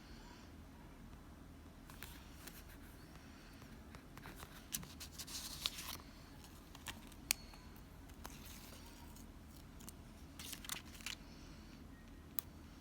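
Scissors snipping paper in short bursts with sharp clicks of the blades, amid light rustling of paper, for a journal page layout.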